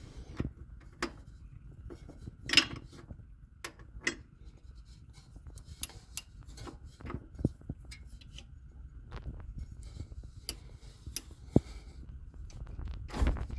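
Irregular metallic clinks and knocks of a ratchet and 1-inch socket being worked down into an engine bay onto the crankshaft nut.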